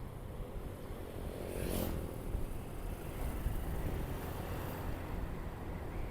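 Motorcycle riding along a road, a steady low engine and wind rumble on the action camera's microphone. About two seconds in, a vehicle passes close by in a brief whoosh that falls in pitch.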